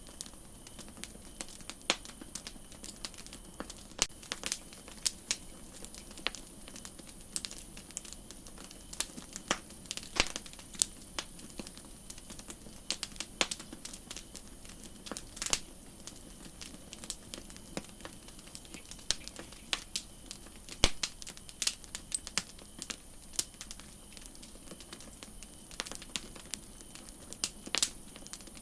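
Wood campfire crackling: irregular sharp pops and snaps over a faint steady hiss, with one louder pop about two-thirds of the way through.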